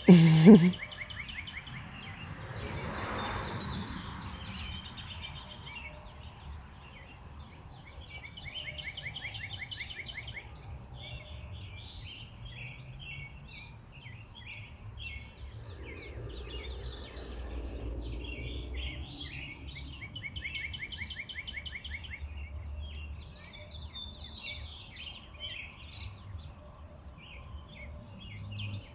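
Birds chirping all through, a steady run of short chirps and quick trills. A brief loud vocal sound right at the start and a low rumble in the middle.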